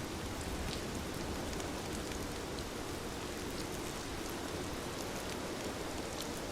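Steady rain falling, an even hiss with scattered light ticks.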